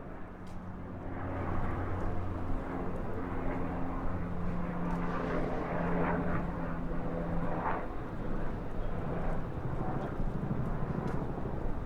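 A steady low engine drone with a humming tone, swelling over the first couple of seconds and then holding, with a brief higher squeak about eight seconds in.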